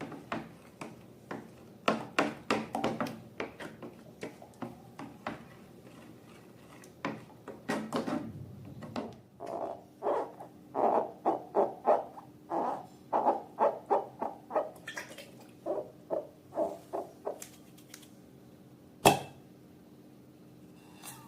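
Slime being squeezed and worked by hand: a run of short wet squelches and small air pops, coming quickly for several seconds, with one sharp click near the end.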